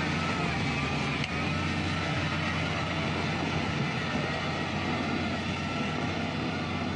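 A vehicle's engine running steadily, with a faint wavering high whine over a low hum.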